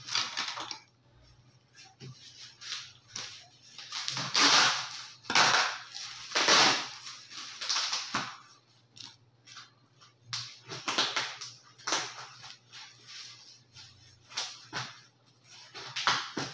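Bubble wrap around a large cardboard parcel crinkling and rustling in irregular bursts as it is handled and unwrapped, with sharp crackles, loudest about four to seven seconds in.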